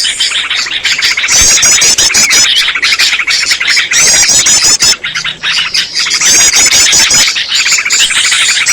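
Bird-lure recording of small songbirds, yellow-vented bulbuls among them, calling loudly all at once: a dense, busy chatter, with quick runs of high, rapidly repeated notes breaking in every few seconds.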